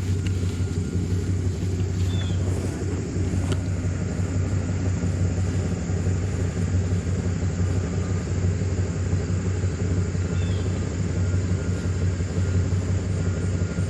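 A vehicle engine running steadily with a constant low rumble.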